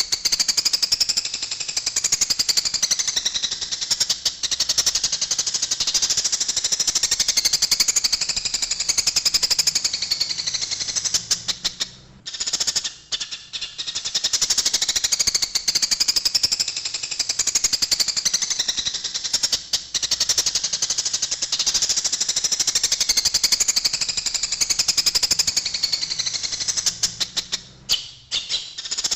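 Eurasian tree sparrows giving the rapid, harsh chattering chirps of a fight, a dense unbroken stream of calls. It thins briefly about twelve seconds in and again near the end.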